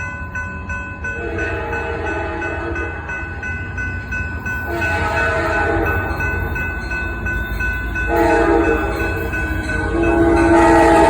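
Locomotive air horn sounding a chord in about four blasts, one of them long, over the low rumble of an approaching train that grows louder toward the end.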